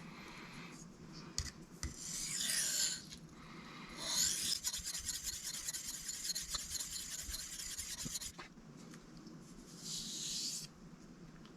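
A steel knife blade scraping across a whetstone as the edge is sharpened, in three runs of strokes: a short one about two seconds in, a longer run of about four seconds, and a short one near the end.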